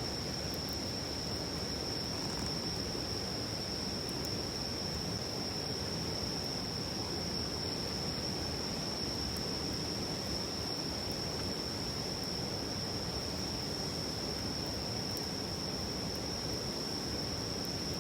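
River murmuring steadily, with insects keeping up one continuous high trill over it.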